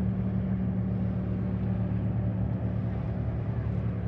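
Boat engine running steadily: a low, even droning hum that holds its pitch and level throughout.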